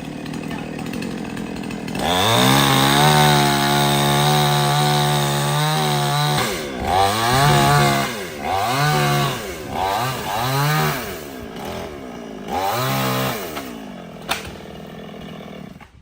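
Two-stroke chainsaw idling, then revved to a steady full throttle for about four seconds. It is then blipped up and down about five times before settling back to idle, with a sharp click near the end.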